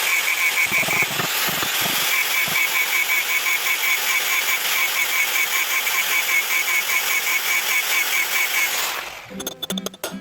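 A power tool running steadily with a rapid pulsing whine over a dense hiss, which cuts off suddenly near the end as guitar music begins.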